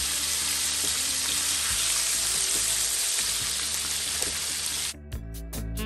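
Chicken wings deep-frying in a pan of hot oil: a steady, dense sizzle. It cuts off abruptly near the end, and music with a beat comes in.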